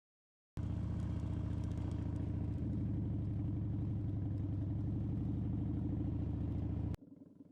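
Harley-Davidson Dyna Super Glide's V-twin engine running steadily at low revs. It cuts in suddenly about half a second in and cuts off abruptly near the end, leaving a fainter engine sound.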